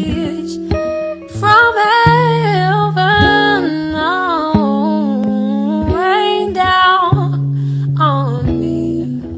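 Gospel song: a voice singing a slow, gliding melody over acoustic guitar.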